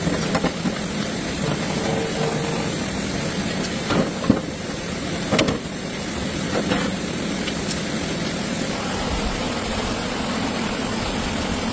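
Tractor engine running steadily, with a couple of sharp knocks a few seconds in.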